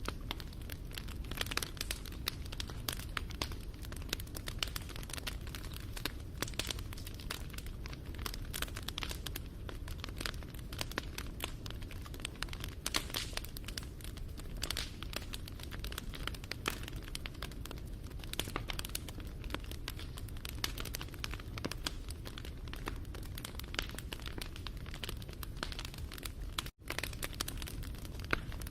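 Wood fire crackling and popping continuously over a low rumble of burning, with irregular sharp snaps. The sound cuts out for an instant about two seconds before the end.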